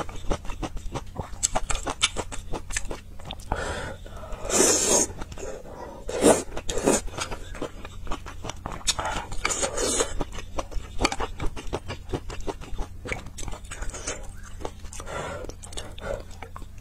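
Close-miked chewing of a spicy noodle and meat stew: a steady run of small mouth clicks and smacks, with a few louder bursts.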